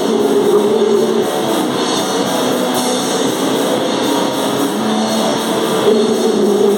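Noise metal band playing live: heavily distorted guitar sounding held notes over a dense, continuous wall of noise, with drums.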